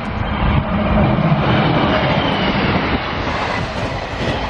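Diesel multiple unit passenger train passing close at speed: a loud, steady rush of wheel-on-rail and engine noise, with a low hum in the first half and more hiss about three seconds in.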